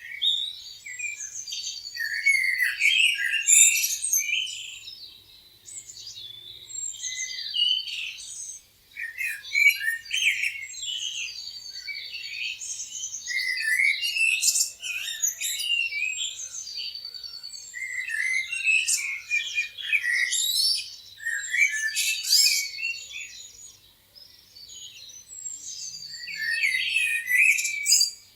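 Several songbirds chirping and trilling together, in overlapping bursts of a few seconds with short lulls between them.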